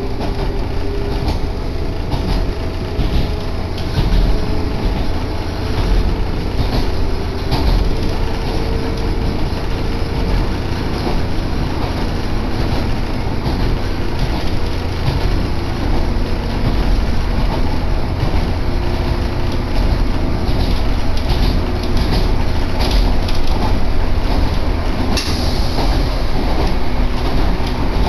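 Inside an Echizen Railway Mikuni-Awara Line railcar running between stations: the steady rumble of the wheels on the track, with light clicks over the rail joints.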